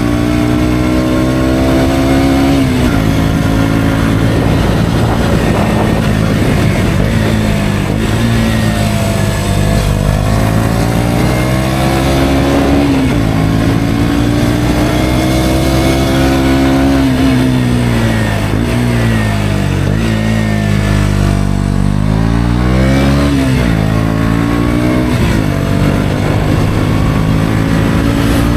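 KTM Duke 125's single-cylinder four-stroke engine running through an Akrapovic exhaust, its pitch rising under acceleration and dropping sharply at gear changes, about four times, with steadier cruising and easing off in between.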